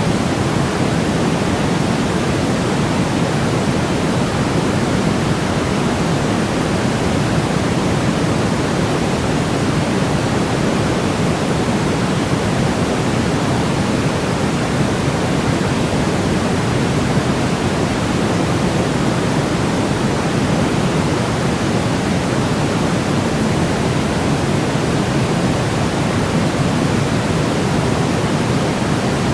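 Steady, unbroken synthetic noise, a soft even rush weighted toward the low end rather than a bright hiss, with no changes or pauses.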